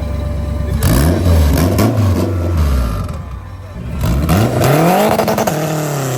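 A car engine revving hard, its pitch sweeping up and down several times, with one big rise about four seconds in before it falls and fades.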